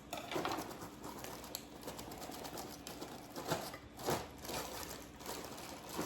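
Light kitchen handling noises: scattered soft clicks and rustles, with a few louder brief scrapes or taps, as food is arranged in a dish.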